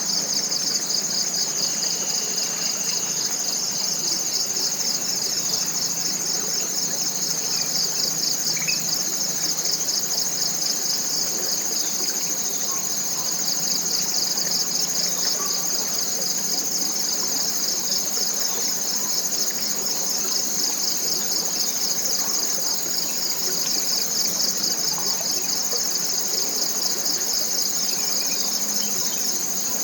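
Chorus of forest insects: a steady high-pitched buzz with a rapidly pulsing trill just beneath it, unchanging throughout.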